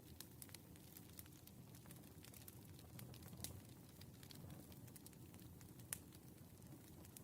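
Burning firewood crackling softly: scattered sharp pops and ticks over a low, steady rumble, with the loudest pop about six seconds in.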